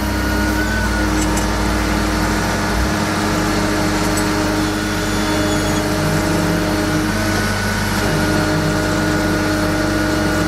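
An engine running steadily, a hum of several steady tones over a low rumble; the deepest part of the rumble eases off about two and a half seconds in.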